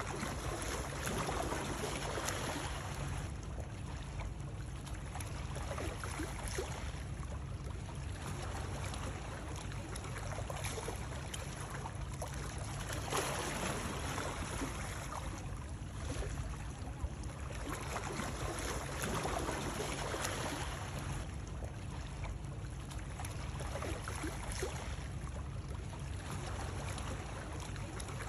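Continuous water noise, a steady wash with gentle swells every two to three seconds over a constant low rumble.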